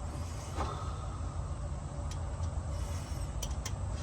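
A few light clicks from a hand ratchet working a nut, over a steady low rumble.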